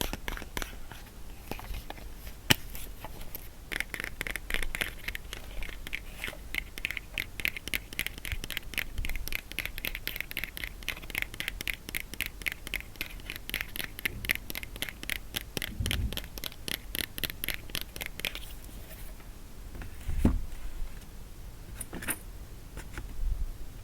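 Rapid, even scratching on a box, several strokes a second for most of the time, with a few dull thumps near the end.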